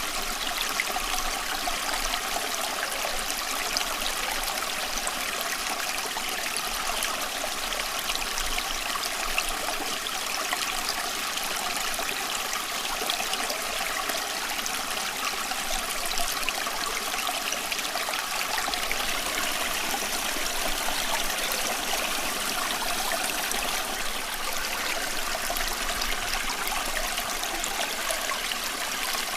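Running water, a steady, even rush with fine splashing and no change in level.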